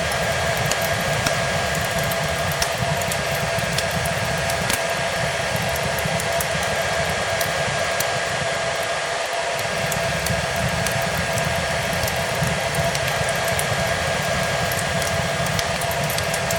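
Hair dryer running steadily: a constant rushing blow with a steady motor whine. Scattered small crackles and pops from a fireplace fire are mixed in.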